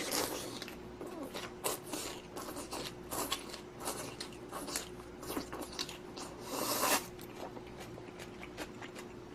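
Close-miked eating: a person chewing and crunching food, with many wet clicks and smacks. There are longer noisy bursts near the start and about seven seconds in, over a faint steady hum.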